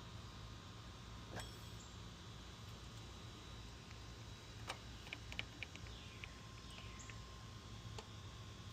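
Quiet steady background hum with a few faint sharp clicks, about a second and a half in and near five seconds in, followed by a short run of light ticks.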